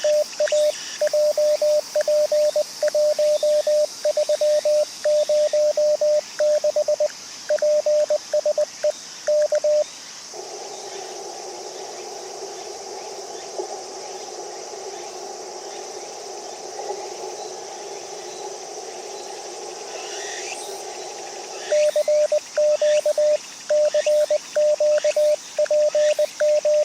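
Amateur radio transceiver sounding Morse code (CW) as a single steady tone keyed on and off at a fast sending speed, with a pause of about eleven seconds in the middle where only the receiver's filtered band hiss is heard, before the keyed tone starts again.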